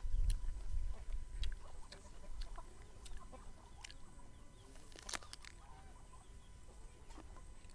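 Crisp crunching and chewing of raw vegetables, many small sharp clicks from each bite. Hens cluck faintly in the background in the second half, and a low rumble sounds during the first second or so.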